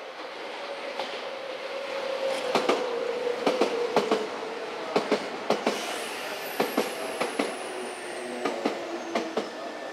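Nankai electric commuter train moving slowly through the station over rail joints and points. Its wheels clack in quick pairs over a steady tone that slowly sinks in pitch, and a thin high whine glides down in the second half.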